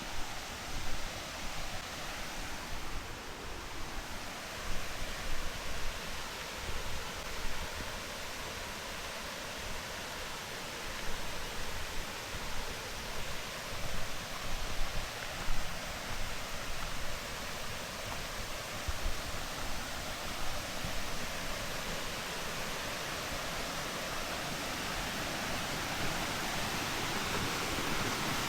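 Waterfall rushing: a steady hiss of falling water that grows gradually louder toward the end, with irregular low thumps in the first half.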